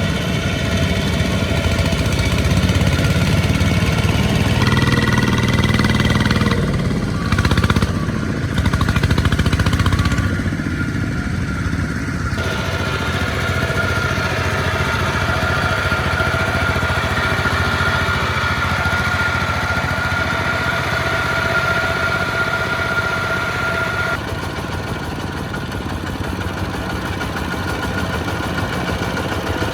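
Small farm tractor engines running steadily under load. The sound shifts abruptly a few times, and a steady high whine sits over the engine through the middle stretch.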